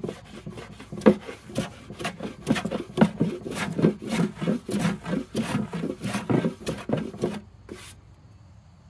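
Stanley No. 5 jack plane taking quick, repeated strokes along a wooden board, about two a second, each a short rasping shave of steel through wood. The plane has a very sharp blade set for a fine cut. The strokes stop shortly before the end.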